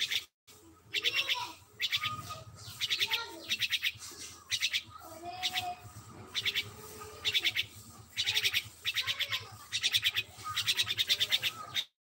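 A bird chirping in about a dozen short bursts of rapid high chirps, roughly one a second, with fainter lower calls between them.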